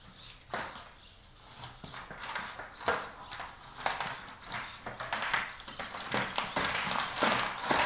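Feet of a legged rescue robot tapping on the arena floor as it walks: a run of irregular clicks and taps that grows denser and louder toward the end.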